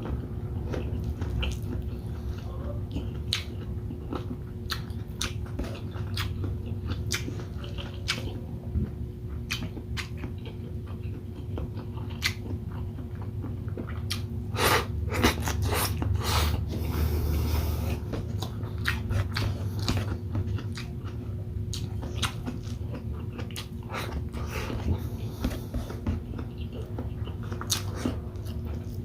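Close-miked chewing and biting while eating shrimp and squid in coconut milk with rice: irregular wet smacks and sharp mouth clicks over a steady low hum.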